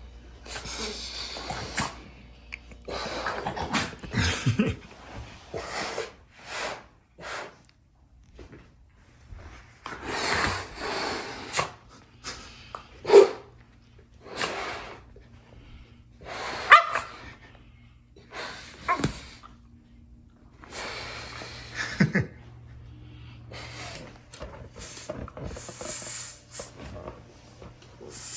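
Shiba Inu barking several times in short, sharp barks, with bursts of scuffling noise in between.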